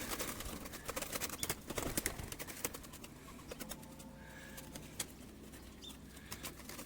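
Scattered light clicks and knocks, busiest in the first few seconds, with a faint dove coo about four seconds in.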